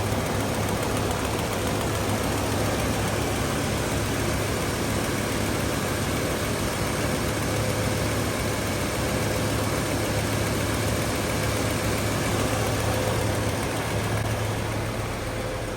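1966 Lincoln Continental's 462 cubic-inch V8 idling steadily after a cold start.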